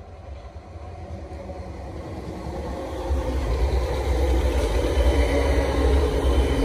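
South Western Railway passenger train approaching and passing close by. The rumble of its wheels on the rails grows steadily louder and reaches full level about three seconds in.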